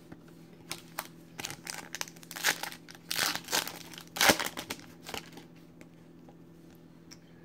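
Foil trading-card pack wrapper crinkling and tearing as it is opened by hand: a run of crackles and rustles, the loudest crackle a little past the middle, stopping about two-thirds of the way through.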